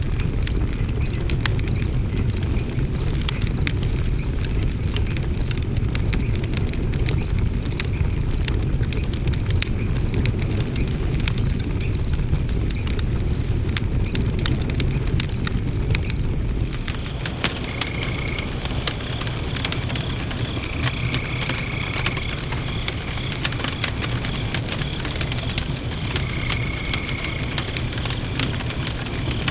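Wood fire burning in a fire pit, crackling and popping constantly over a steady low rush. A faint high chirp repeats about twice a second through the first half.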